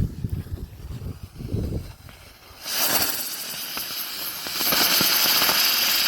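Small ground-spinner firework lit and spinning, spraying sparks. Its hiss starts a little under three seconds in and gets louder and higher-pitched about two seconds later.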